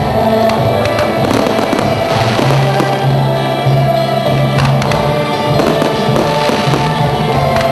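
Fireworks going off, with scattered bangs and crackling, over loud music with long held notes.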